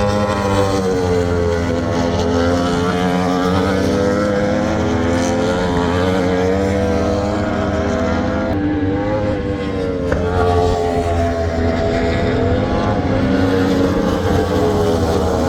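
Superbike racing engines running hard, the pitch rising and falling as the bikes work through the gears, with a sharp change in pitch a little past halfway.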